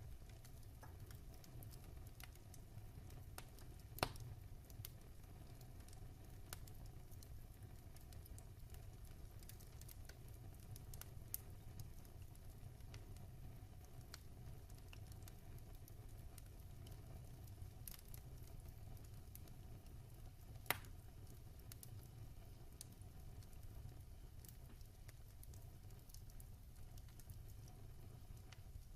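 Wood fire in a fireplace crackling quietly: scattered small crackles over a low steady rumble, with two louder sharp pops, one about four seconds in and one about twenty-one seconds in.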